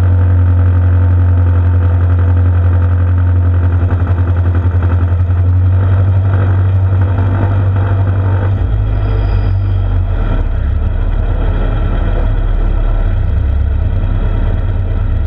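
A Farmall Super M tractor's four-cylinder engine runs loud and steady, pulling in an antique tractor pull. About eight and a half seconds in, its note drops lower and rougher.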